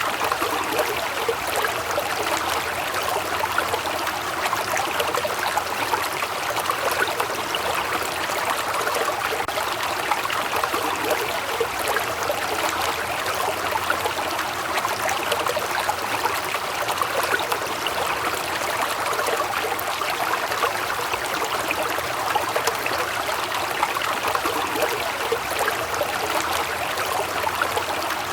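Waterfall: falling water rushing and splashing steadily, an even noise with no letup.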